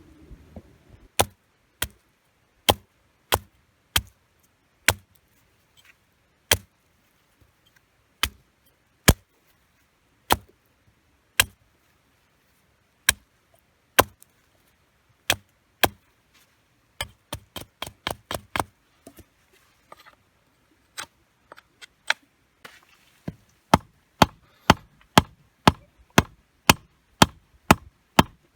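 Firewood being chopped: a long series of sharp wooden strikes, at first about one every second or less, with a cluster of lighter quick hits a little past halfway and faster, steady strikes near the end.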